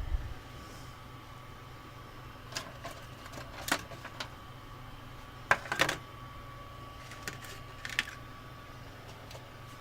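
A few short, sharp clicks and taps scattered over a steady low hum with a faint high whine.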